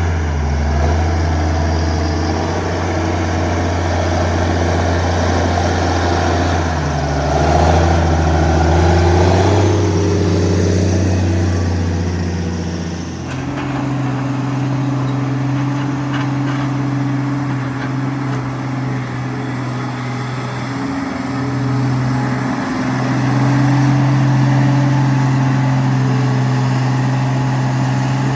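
Heavy diesel logging machinery engine running, its pitch rising and falling with load and throttle. About halfway through, the sound changes abruptly to a steadier, higher engine note.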